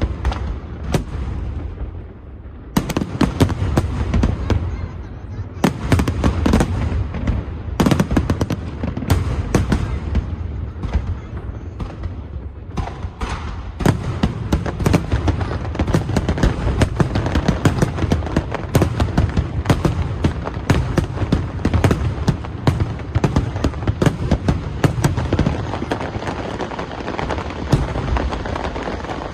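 Large aerial fireworks display going off in a dense barrage of booming shell bursts and crackling. There is a brief lull about two seconds in, and the barrage becomes almost continuous from about halfway through.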